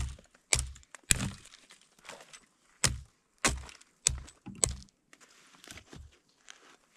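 Dry sticks being snapped by hand: a series of sharp cracks, about seven in the first five seconds, then two fainter snaps near the end.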